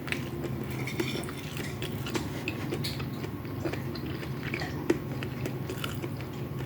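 Close-miked chewing and biting of fried rice with chicken, with scattered small clicks and taps, over a steady low hum.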